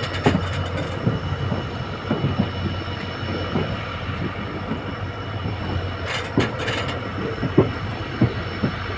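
Diesel passenger train running along the track: a steady low rumble with irregular knocks of the wheels over the rails and a faint steady high tone, plus a short burst of hiss a little past halfway.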